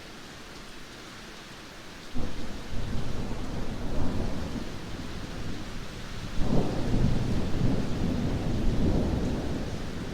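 Heavy rain falling steadily, broken about two seconds in by a sudden crack of thunder that rolls into a long rumble, with a second, louder peal about six and a half seconds in.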